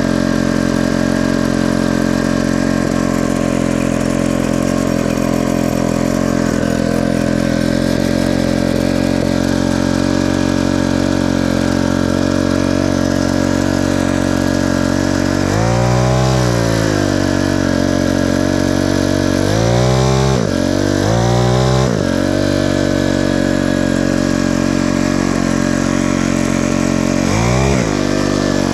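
Small gasoline engine idling steadily, revved up briefly four times: once about halfway through, twice in quick succession a few seconds later, and once more near the end. The engine is running again after its wiring repair, which the owner then declares fixed.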